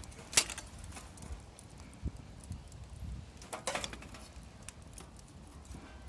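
Wood fire crackling, with scattered sharp pops: a loud crack about half a second in and another few around three and a half seconds in, over a low steady rumble.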